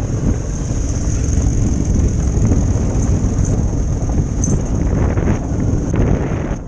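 Wind buffeting the microphone on a moving motorcycle, over engine and road noise, with a steady high-pitched whine.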